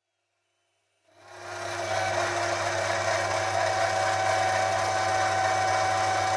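Electric motor of a metal lathe starting up about a second in, then running steadily with a low hum and a higher whine while turning a part down to size.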